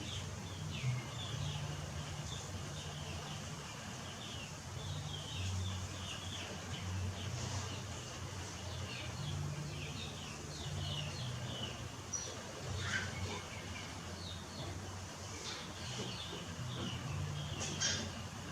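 Many short, high-pitched chirping calls, coming in quick clusters throughout, over a steady low hum.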